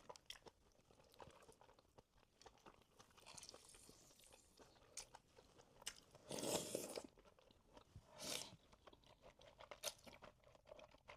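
Close-miked eating sounds, very quiet: chewing and small wet mouth clicks as mussels and spicy Buldak noodles are eaten. There is a louder noisy stretch of chewing about six seconds in and a shorter one about eight seconds in.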